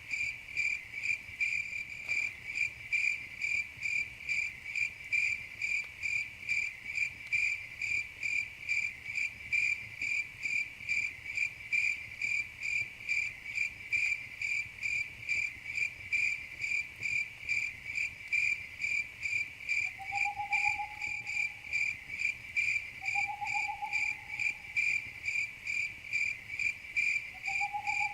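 Crickets chirping in a steady, even rhythm, about two to three chirps a second. Three short, lower-pitched calls of another animal sound in the last third.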